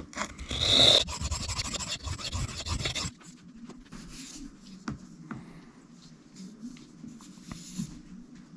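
Steel knife blade being stroked across a sharpening stone: rasping strokes for about three seconds, then lighter, quieter scraping with a few sharp clicks. The edge is being evened out along its length after a chip was ground away.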